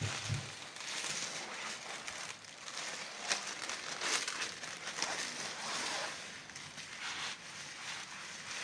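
Thin plastic film crinkling and rustling as it is wrapped around a stovepipe, irregular, with a few sharper crackles.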